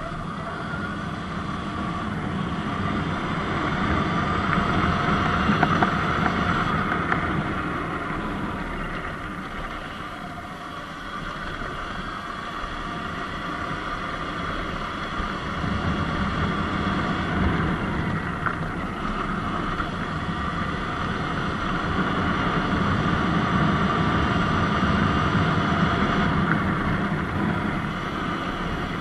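Surron Light Bee electric dirt bike riding on a dirt road: its motor and drivetrain whine rises and falls with speed, swelling twice, over a steady low rumble.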